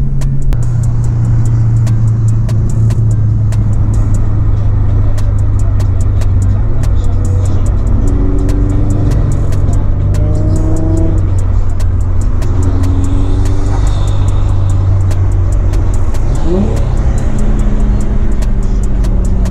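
Infiniti G35's V6 engine and road noise droning steadily inside the cabin while cruising, with music playing faintly over it.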